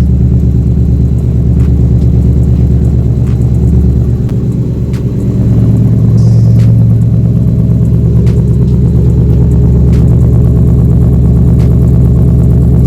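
The V8 engine of a Ford F-150 SVT Raptor pickup running at a loud, steady idle. Its note rises a little about five seconds in, as in a light rev, then settles.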